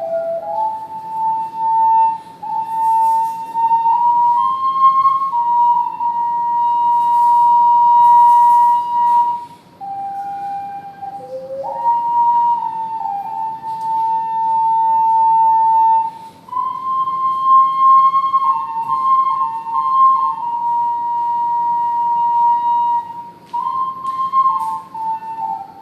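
Ceramic triple ocarina playing a slow melody in held, pure, whistle-like notes, with short gaps between phrases.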